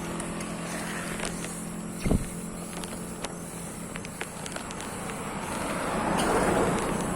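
Road noise from passing motor traffic with a steady rush. There is a single thump about two seconds in, and a vehicle grows louder near the end.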